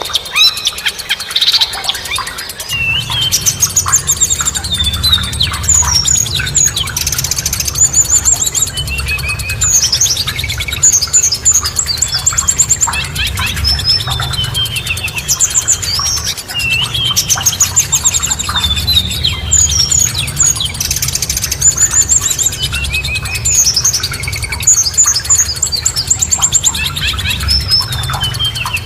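Songbirds chirping and singing in quick trills and short rising and falling notes, dense and overlapping, over a steady low rumble that comes in about three seconds in.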